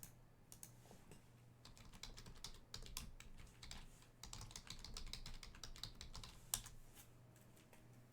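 Faint typing on a computer keyboard: a run of quick, irregular key clicks over a steady low hum.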